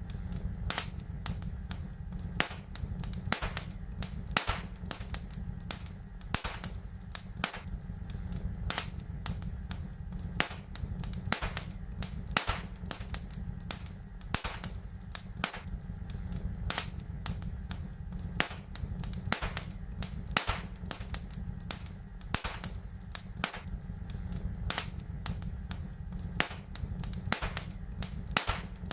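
Wood fire crackling, with frequent irregular sharp snaps and pops over a steady low rumble.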